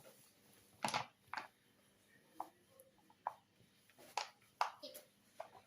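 A scattered series of light knocks and clicks from bowls and kitchen utensils being handled while dry flour and semolina are set out for dough.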